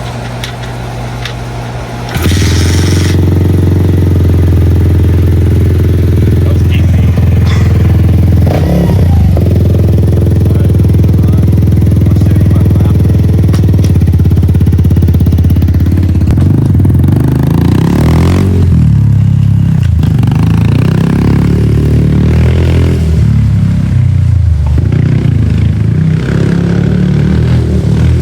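Small dirt bike engine kickstarted: it catches about two seconds in and runs steadily and loudly. From about halfway through, it revs up and down repeatedly as the bike is ridden.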